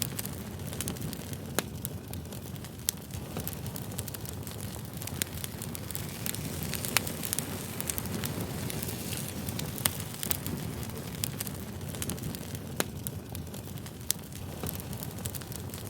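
Wood fire burning: a steady low rumble of flames with sharp crackles and pops scattered every second or two.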